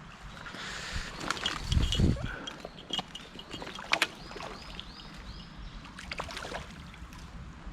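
Stream water sloshing and splashing, with a heavy low thump about two seconds in and scattered sharp clicks. A quick run of high, repeated chirping notes comes near the middle.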